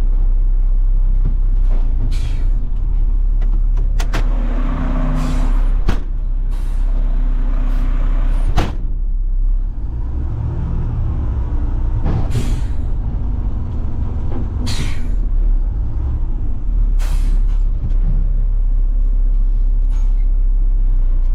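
Front-load garbage truck's diesel engine running with a steady low rumble, with short hisses of air every couple of seconds and a sharp click about eight and a half seconds in.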